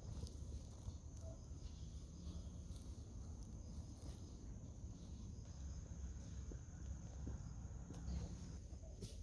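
A steady high-pitched insect trill that holds one pitch throughout, over a low rumble with a few faint clicks.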